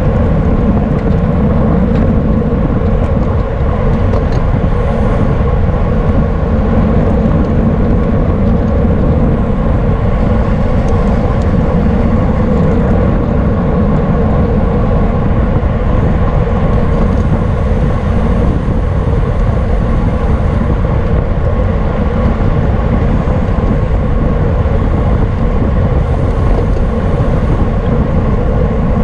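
Steady wind noise over the microphone of a camera on a bicycle racing at speed, with an even, unbroken rush of sound.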